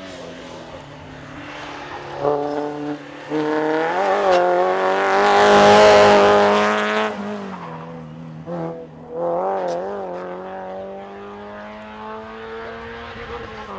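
Rally car engine running hard as the car comes through a corner. The engine note breaks and changes pitch several times with gear changes and lifts, is loudest about six seconds in as the car passes closest, then accelerates away with further shifts.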